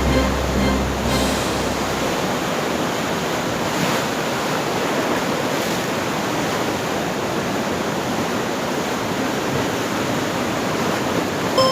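Sea surf washing steadily, an even rush of water noise. A low hum with a few steady tones fades out about a second in.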